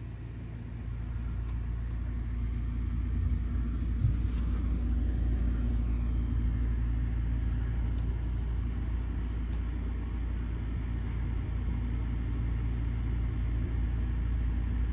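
Strong windstorm gusts buffeting the microphone: a steady low rumble with a haze of rushing air.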